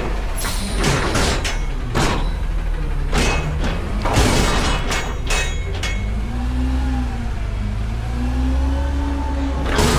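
Front-load garbage truck's diesel engine running and revving up and down to drive the hydraulic lift arms, with several metal clanks and bangs in the first half as the forks and bin knock together.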